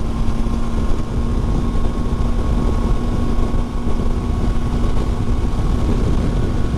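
2019 Triumph Tiger 800 XRx motorcycle's three-cylinder engine running at a steady highway cruise, a constant hum under a heavy rush of wind and road noise, heard from the moving bike.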